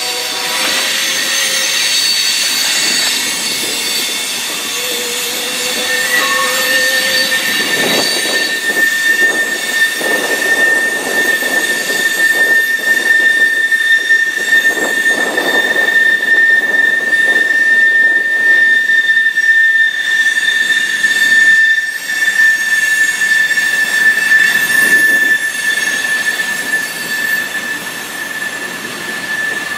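Freight train rolling past with its wheels squealing: a steady, high-pitched flange squeal sets in about six seconds in and holds over the rumble of the cars.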